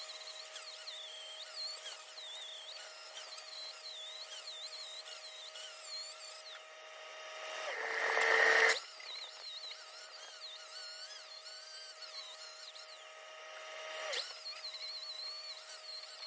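Power grinder running steadily on steel, blending down fresh welds, its whine wavering as it bears on the metal. About eight seconds in there is a brief louder rushing stretch that cuts off sharply before the steady grinding resumes.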